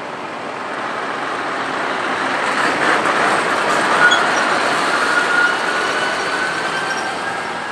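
A truck drives past, its noise swelling to a peak in the middle and fading away, with a faint high whine in the second half.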